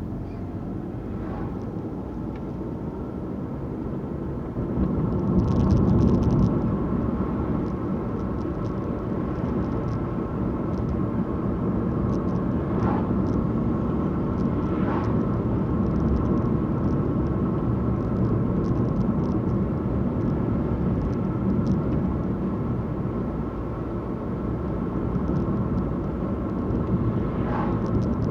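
Car driving along the road: a steady rumble of engine and tyres, swelling louder for a couple of seconds about five seconds in.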